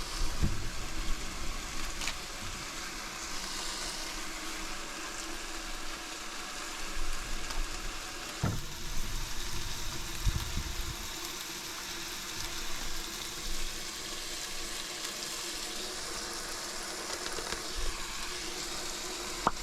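Food sizzling in a pan on a camp stove, a steady hiss broken by a few light clicks and a couple of dull knocks.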